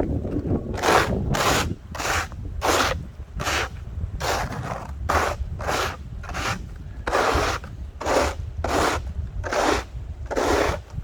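Snow being cleared from a path with rhythmic scraping strokes, about one and a half a second, over a steady low rumble.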